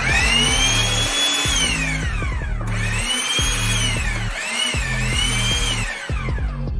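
Power drill whining as it speeds up, runs, and winds down, twice, the second run dipping briefly in the middle, over background music with a steady beat.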